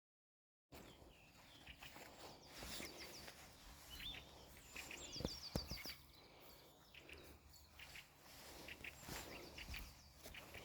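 Faint songbirds calling in a forest: two quick runs of repeated high notes and scattered short chirps over a low outdoor hush, with a few soft knocks near the middle.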